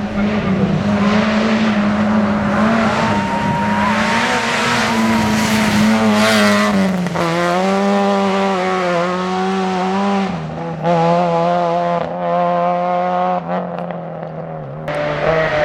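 Rally car engine running at high revs, its pitch holding steady and then stepping down twice, as at gear changes.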